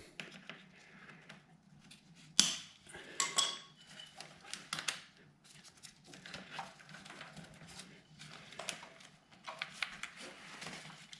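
Hand tools and small metal parts clicking and clinking during motorcycle disassembly, in scattered light knocks with a sharp click about two and a half seconds in.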